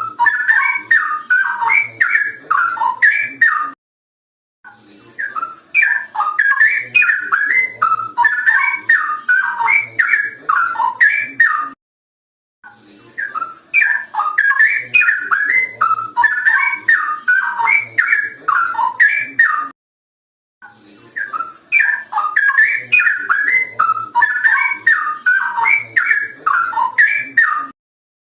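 Straw-headed bulbul (cucak rowo) in full song: rapid runs of gliding whistled notes, in phrases about seven seconds long broken by three short silent gaps.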